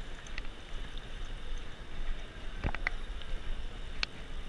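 Wind rushing over the microphone of a handlebar camera on a moving bicycle, with a low rumble and tyre noise on the road. A few sharp clicks break in during the second half.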